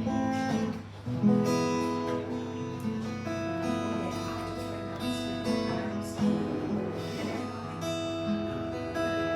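Acoustic guitar being strummed, ringing chords that change every second or so.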